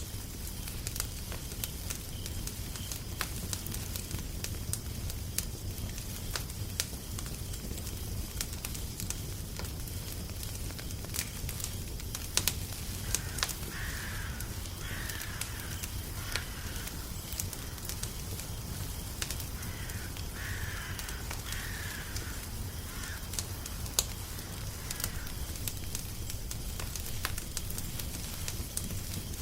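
Wood fire crackling, with frequent sharp pops over a low steady rumble. Near the middle a bird calls in two runs of three short calls, a few seconds apart.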